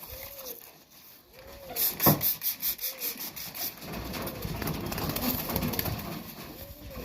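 Mite spray squirted onto a pigeon in a quick run of short hissing bursts, about five a second, with a knock early in the run. This is followed by a few seconds of rubbing. Pigeons coo repeatedly in the background.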